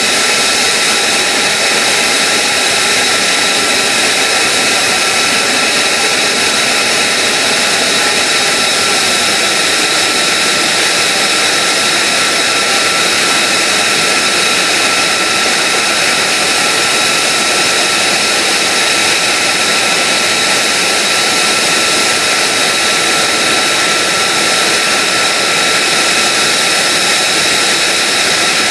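F-35A Lightning II's Pratt & Whitney F135 jet engine running steadily on the ground: a loud, even rushing hiss with several steady high-pitched whines that hold the same pitch throughout.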